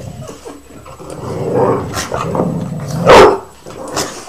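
Dogs play-fighting and growling, with one loud, sharp bark about three seconds in.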